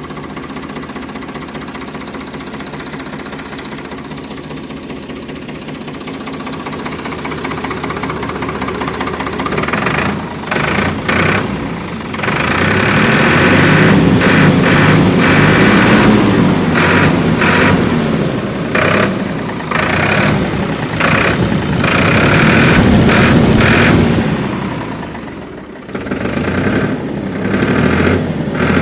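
Ford 4610 tractor's three-cylinder diesel engine idling steadily, then running louder from about ten seconds in. It swells and eases twice, dips briefly near the end and picks up again.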